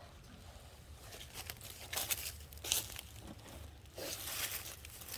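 Greasy hands struggling to twist open the cap of an oil container: irregular rustling, crinkling scrapes, loudest near the end.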